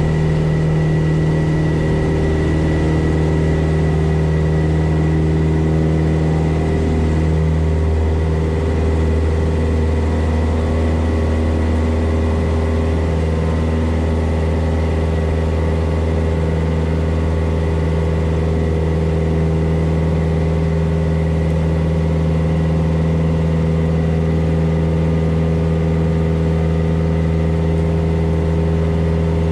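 Cessna 172S's four-cylinder piston engine and propeller droning steadily in flight, a constant low hum.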